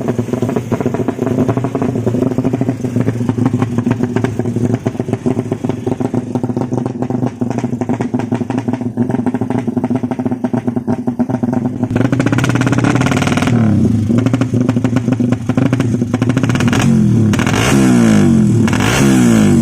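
Ported 200 cc Suzuki Satria FU single-cylinder four-stroke motorcycle engine running at a steady fast idle, then revved: about twelve seconds in it is blipped up and down, and in the last few seconds it is revved again and again in quick rising and falling sweeps.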